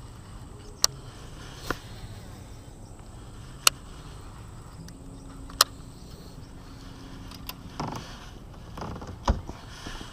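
Six sharp clicks and knocks spread over ten seconds: fishing gear being handled aboard a kayak. A faint steady hum comes in about midway.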